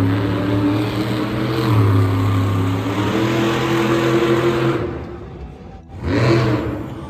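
Engine revving in long surges, its pitch stepping up and down, dropping away about five seconds in and picking up again just after.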